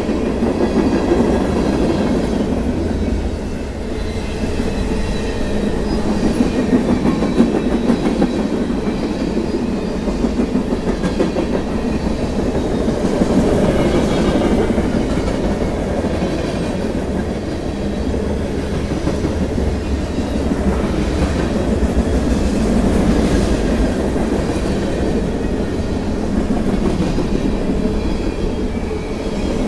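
Freight cars of a mixed manifest train rolling past close by: a steady rumble and clatter of steel wheels on the rails.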